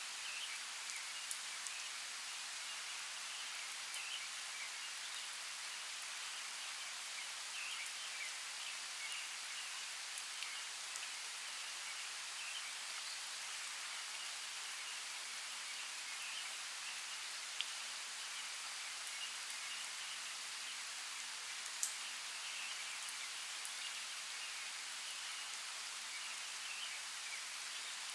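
Forest ambience of steady, even rain hiss with a few sharp drip ticks, the loudest about two thirds of the way through. Faint chirps of distant birds sound through it.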